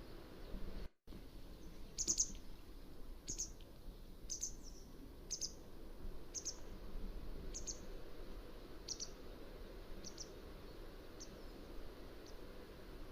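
Mountain wagtail calling: a run of short, sharp, high notes about one a second, growing fainter toward the end. A brief break in the audio about a second in.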